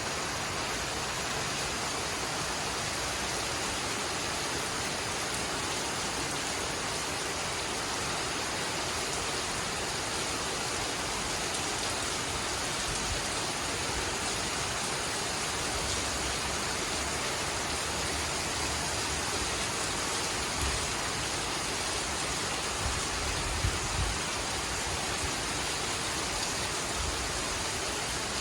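Heavy rain falling, a steady even hiss, with a few brief low thumps in the second half.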